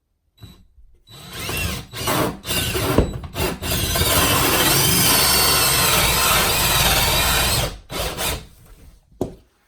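Electric drill starting with a couple of short blips, then running for about seven seconds with a wavering motor whine as it bores, then two brief blips near the end.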